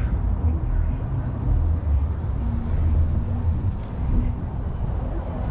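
Wind buffeting the microphone outdoors: a low, uneven rumble with a faint hiss above it.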